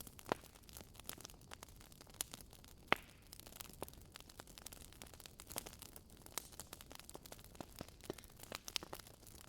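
Wood fire burning in a fireplace, crackling with irregular small pops and snaps over a faint hiss, one sharper pop about three seconds in.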